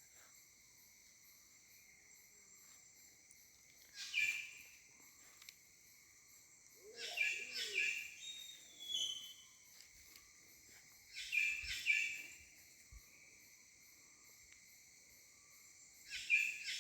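A bird calling in repeated bouts of short, falling notes about every four seconds, over a steady high drone of insects.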